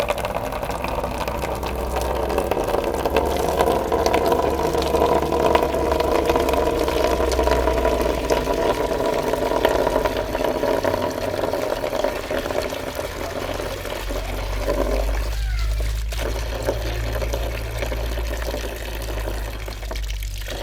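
Water running steadily, easing off about fifteen seconds in, over a low hum that grows stronger as the water drops.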